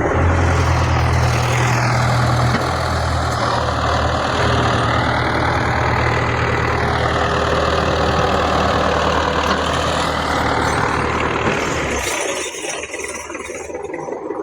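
Belarus 510 tractor's diesel engine running steadily with a low hum and a broad noise above it. The low hum drops away about twelve seconds in.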